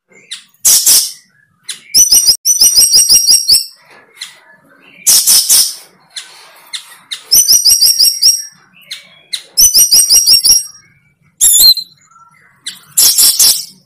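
A bird calling: harsh, noisy calls about half a second long alternate with quick runs of high, clear chirps.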